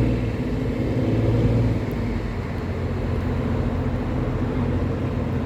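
Tugboat's engine running steadily under load as the tow gets under way, a deep drone that eases slightly about two seconds in.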